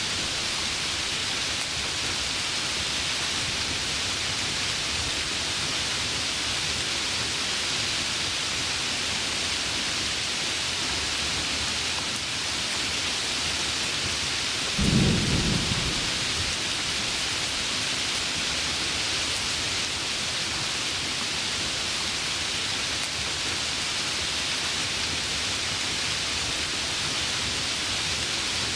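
Heavy rain falling steadily, with one short, low clap of thunder about halfway through.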